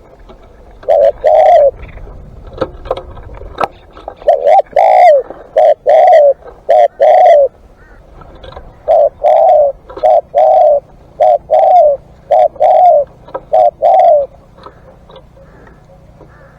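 Spotted dove cooing: several phrases of short, arching coo notes, which stop about two seconds before the end.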